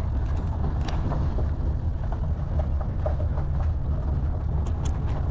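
4x4 jeep driving, a steady low engine and road rumble with light scattered rattles.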